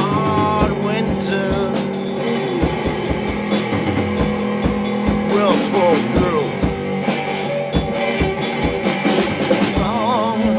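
Instrumental stretch of a rock song: a steady drum-kit beat with bass drum strokes over held low notes, with a melodic line that bends up and down in pitch.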